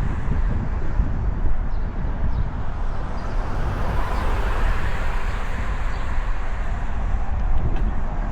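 Steady wind rush and low rumble buffeting the microphone of a road bike rider moving at speed.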